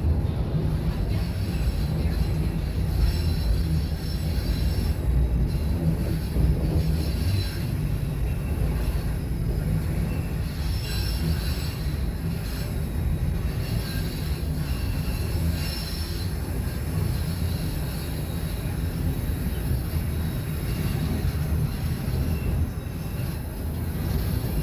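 Toronto subway Line 1 train running between stations, heard from inside the car: a steady low rumble from the wheels and motors, with faint high squeals coming and going from the wheels on the rails.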